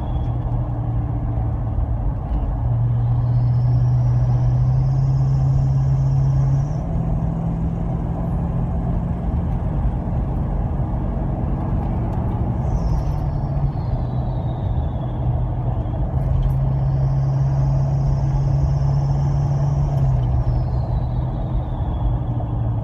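Toyota Land Cruiser 200's twin-turbo V8 diesel, fitted with a modified intake, running under throttle with a clear turbo whistle. The whistle rises and holds as the turbos spool up, then glides down when the throttle eases, twice, over a steady engine hum.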